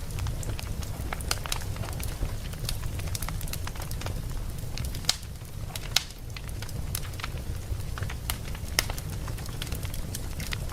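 Campfire burning: a steady low rumble of flames under irregular crackling and snapping, with a few sharper, louder pops about halfway through and again near the end.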